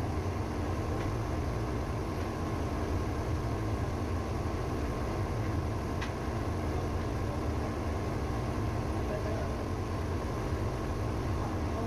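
A ship's auxiliary engine running steadily at a constant speed, with a low, even engine-room hum.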